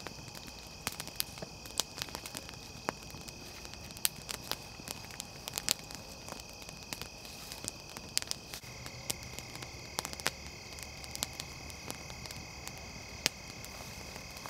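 Small wood fire crackling, with irregular sharp pops and snaps as it catches, over a steady high-pitched drone in the background.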